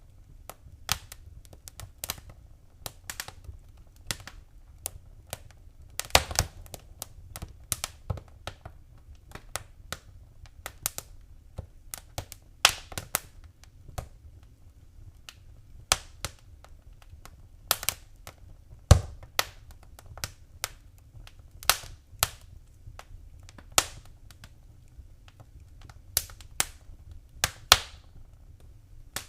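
Wood fire crackling in a fireplace: irregular sharp pops and snaps, a few much louder than the rest, over a faint low rumble of burning.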